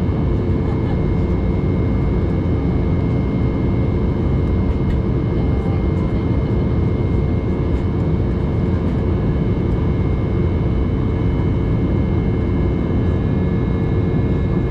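Steady cabin noise of an Embraer 190 airliner in flight, heard from inside: an even rush of air with the drone of its General Electric CF34 turbofans, and a steady hum with a few faint high whines over it.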